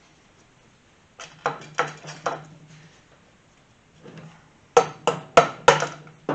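Hammer tapping on the Kawasaki KZ400's cam caps to knock them up and loose from the cylinder head: a run of about four ringing metallic taps, a pause, then four sharper, louder taps near the end.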